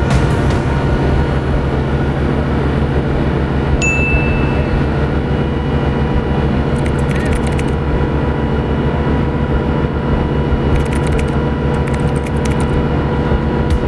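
Roll-on/roll-off ferry's engines running, heard on board as a loud, steady low drone. There are light clicks and rattles partway through and a short high beep about four seconds in.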